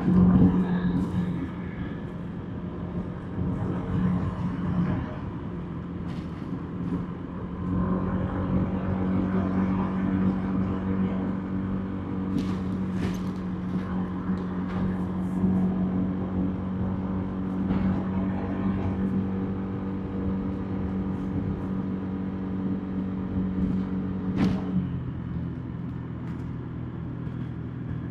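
Motorbike engine running steadily under way, with road and wind noise; its note drops to a lower pitch near the end as the throttle eases.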